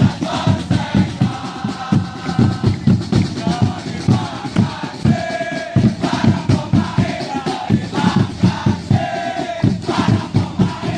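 Football supporters in the stands singing a chant together over a fast, steady drum beat.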